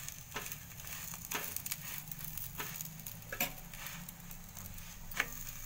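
Oil sizzling under an aloo paratha frying on a tawa, with scrapes and taps of a steel spoon against the pan as the paratha is pressed and turned, half a dozen times.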